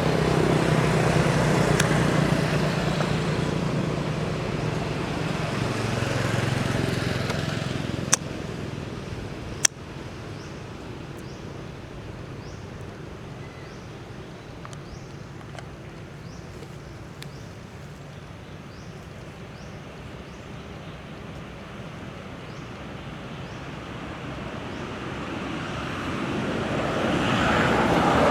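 Road traffic: a motor vehicle passes over the first several seconds, two sharp clicks come a second and a half apart, and after a quieter stretch another vehicle approaches near the end.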